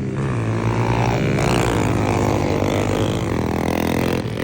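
Pit bike engines revving hard as the bikes race on the track, the engine pitch climbing and dropping with the throttle.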